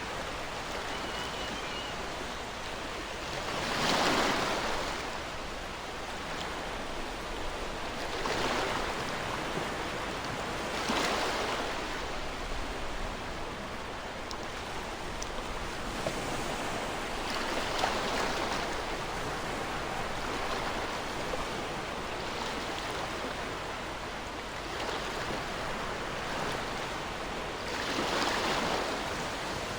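Ocean waves breaking on a shore over a steady wash of surf, with several louder breakers, the loudest about four seconds in and another near the end.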